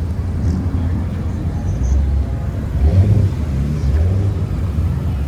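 Car engines running at a car meet, a loud, deep low rumble.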